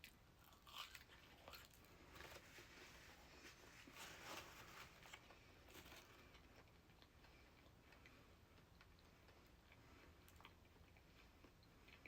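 Faint close-up eating sounds: chewing with wet mouth clicks and a few soft crunchy bites, busiest in the first five seconds, then fading to near silence.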